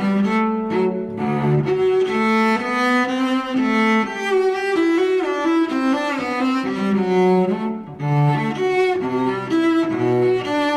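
Bowed string music, with cello-range low notes moving in clear steps under higher sustained lines.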